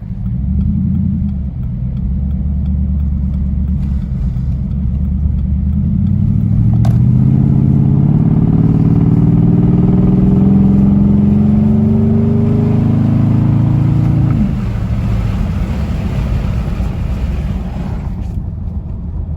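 2013 Jeep Grand Cherokee's 5.7 Hemi V8 through Cherry Bomb mufflers with the resonator deleted, accelerating at about half throttle. The exhaust note is loud and rises in pitch for several seconds, then drops suddenly and settles back to a lower, quieter cruise.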